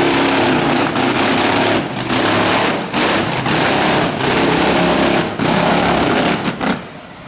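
Monster truck engine running hard at high revs, with the throttle cut briefly about two, three and five seconds in, then dropping away sharply near the end.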